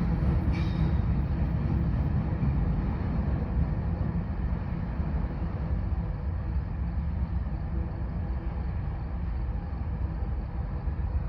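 Norfolk Southern empty coal train rolling by, a steady low rumble that slowly fades.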